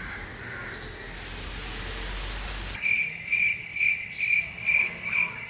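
Steady rain hiss for the first few seconds, cut off abruptly and followed by a rhythmic high-pitched chirping, about two chirps a second, like a cricket.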